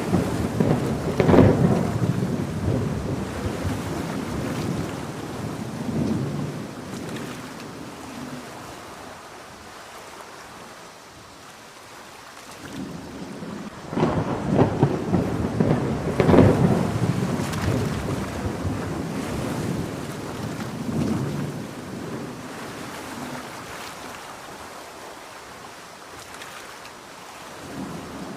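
Seaside thunderstorm: heavy rain falls steadily throughout. Two long rolls of thunder or surf come in, one near the start and one about halfway, each swelling quickly and fading over several seconds.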